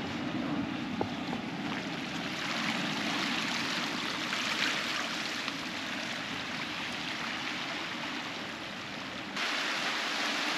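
Seawater lapping and splashing against lava rocks at the shoreline, a steady watery hiss with small splashes. About nine seconds in it jumps suddenly louder.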